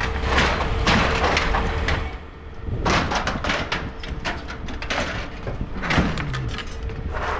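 Scrap metal being handled and dropped, several sharp knocks and clatters, the loudest about three and six seconds in.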